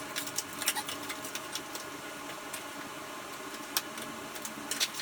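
Irregular sharp metal clicks and clinks of hand tools and parts being worked on a dirt bike's rear suspension and exhaust, over a steady background hum.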